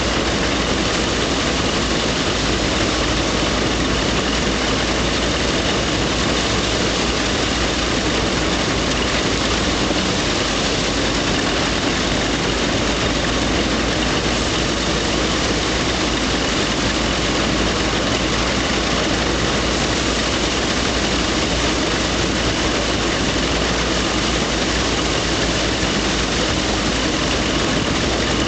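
Threshing machine running steadily with its engine, a constant loud mechanical noise with no change in speed.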